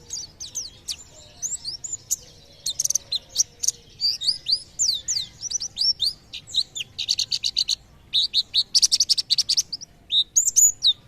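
White-eye (pleci) singing a fast, jumbled song of high, sharp chirps and quick downward slurs. About two-thirds of the way through come two runs of rapid repeated notes, the "tembakan" (shooting) phrases that pleci keepers prize.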